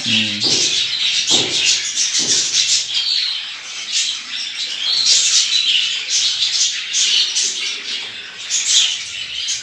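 Many small cage birds chirping and twittering together without a break, with a few low knocks in the first couple of seconds.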